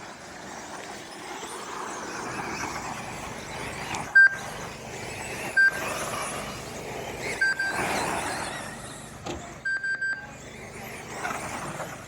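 Radio-controlled short course trucks racing, their motors whining as they rise and fall in pitch over a steady noise of running gear and tyres. Short, sharp electronic beeps cut in over them several times, three in quick succession near the end; these are the beeps of the track's lap-timing system as trucks cross the line.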